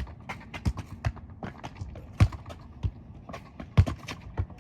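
Running footsteps and the irregular thuds of a football being kicked and dribbled, with a few stronger kicks spread through.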